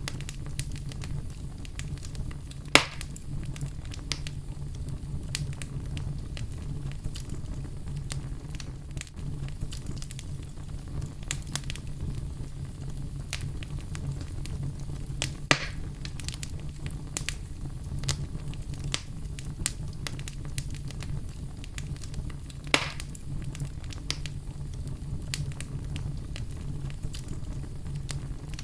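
Wood fire burning in a fireplace: a steady low rumble of flames with constant light crackling and three louder pops at about 3, 15 and 23 seconds.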